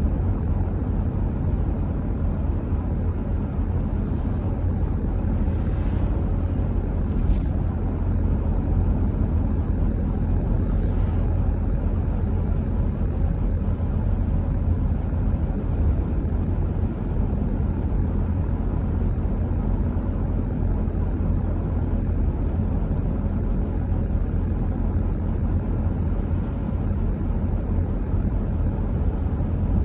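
A car driving at steady speed: a constant low rumble of tyres on the road and engine noise, with no change in pace.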